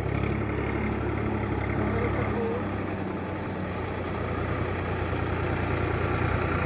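Heavy vehicle diesel engine running steadily at a low, even note.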